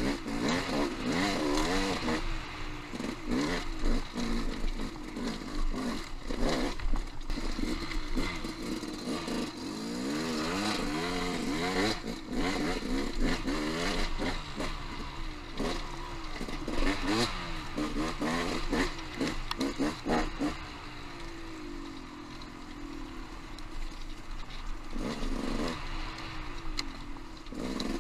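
Off-road motorcycle engine revving up and down under changing throttle while riding rocky singletrack, with clatter and knocks from the bike over rough ground. It eases to a steadier, quieter run for a few seconds past the middle, then picks up again.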